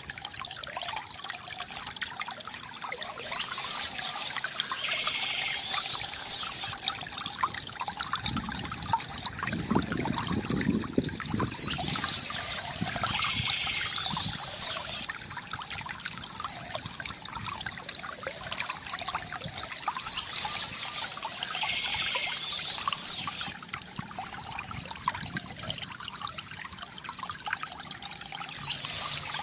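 Small stream trickling and gurgling steadily over stones, with a fuller gurgle about nine seconds in. Birdsong comes in short spells high above the water, roughly every eight seconds.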